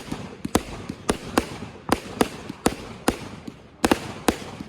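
Fireworks going off: a rapid, irregular series of sharp bangs, about three a second, over a steady hiss.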